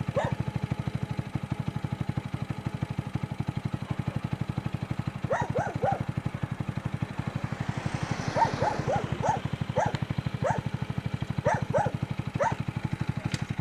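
Dogs barking in short clusters of several barks each, over a steady, fast, low pulsing drone.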